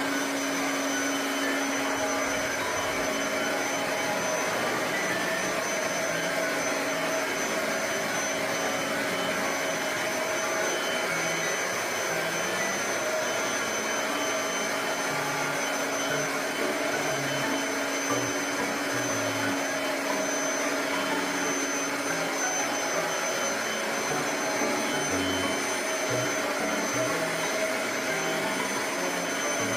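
Kirby vacuum cleaner running steadily while vacuuming dust off wallpaper, an even rushing noise with a steady hum and a high whine.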